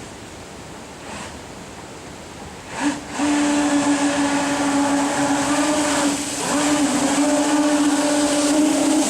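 Electric jet kayak's motor-driven jet drive powering up about three seconds in and running with a loud steady whine, easing off briefly about six seconds in before picking up again.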